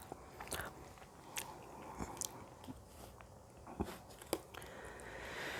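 Close-miked chewing of a mouthful of pasta in bolognese sauce: soft, scattered wet clicks and smacks of the mouth. A breath starts to swell near the end.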